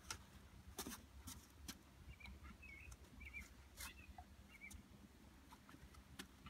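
Near silence outdoors: faint small-bird chirps, several quick ones through the middle, over scattered light clicks.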